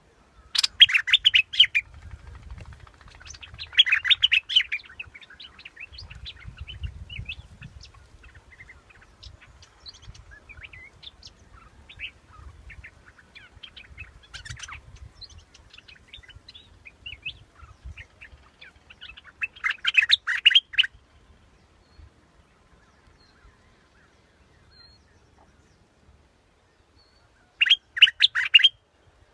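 A bulbul (the Thai 'nok dok taeng') singing four short bursts of quick warbling phrases, each about a second long, with faint scattered chirps between them.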